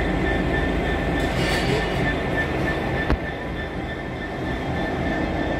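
A train running steadily, with a continuous low rumble and a faint steady high-pitched whine; a single sharp click sounds about three seconds in.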